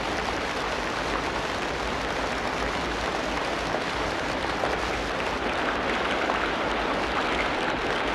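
Steady rain falling in a tropical rainforest: an even hiss of rainfall with many fine, close drop impacts and no single event standing out.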